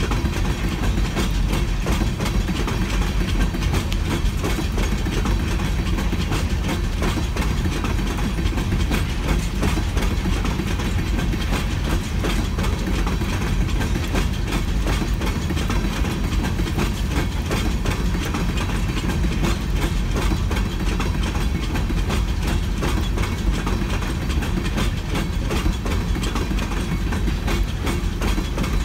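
Freight train of open-top hopper cars rolling steadily past: a continuous rumble of steel wheels on rail, with a stream of clicks and clatter from the wheels.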